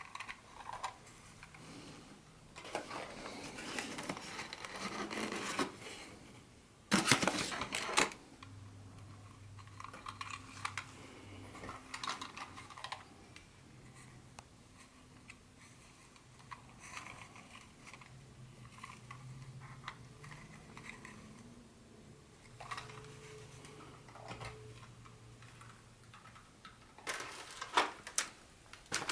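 Hands unpacking and handling packaging and small plastic model-train parts: irregular rustling, scraping and small clicks. There is a louder, brief crinkling burst about seven seconds in and a cluster of sharper clicks near the end.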